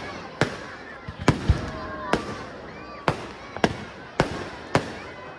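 Fireworks display: a rapid series of sharp bangs, about eight in five seconds, each followed by a short crackling tail.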